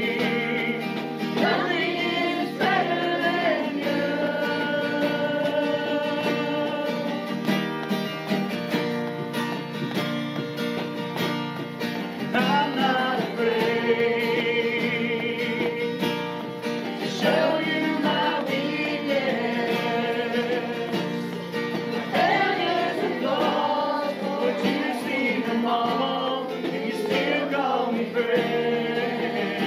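Live worship song: voices singing over acoustic guitar accompaniment, carrying on steadily.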